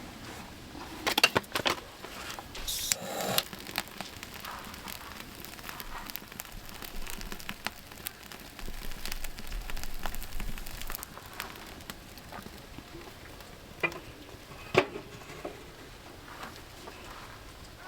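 Burning firewood crackling with scattered small pops, plus a few louder sharp knocks about one to three seconds in and one near the end.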